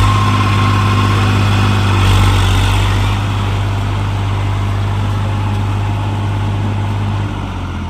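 New Holland tractor's diesel engine running at a steady speed, its note dropping slightly near the end.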